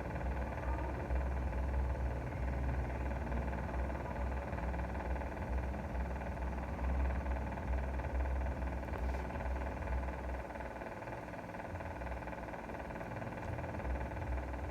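Steady engine and road rumble heard from inside a moving vehicle, deep and even, easing a little about two-thirds of the way through.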